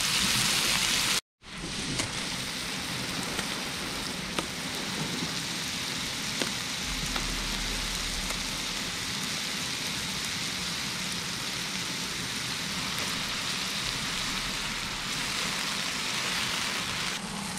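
Lobster meat and plantain slices sizzling in oil on an electric griddle: a steady frying hiss with a few faint pops, cut off briefly about a second in.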